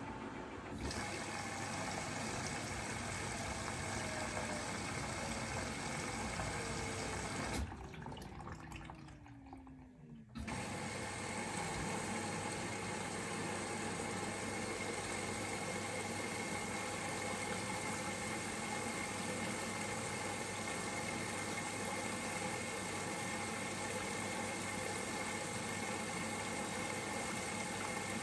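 Bosch Serie 4 washing machine taking in water, a steady rush of water into the machine. Over the first ten seconds a falling whine runs down, and the water sound drops away for a couple of seconds before coming back steadily.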